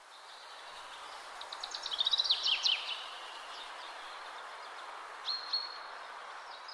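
Small birds singing over steady outdoor background noise. There is a fast run of high chirps about two seconds in, and a short whistled note a little after five seconds.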